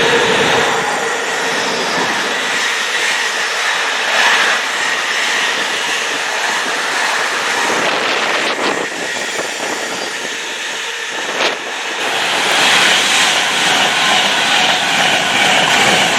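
A train passing: steady, loud noise of wheels running on the rails, with a couple of sharp clicks past the middle.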